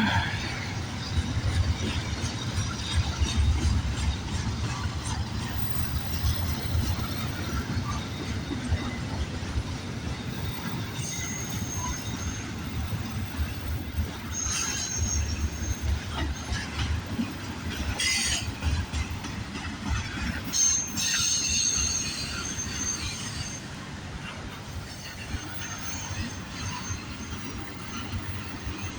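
CN container freight train rolling past, with a steady rumble of wheels on rail. Short high-pitched wheel squeals come several times in the middle stretch, mixed with a few sharp clicks.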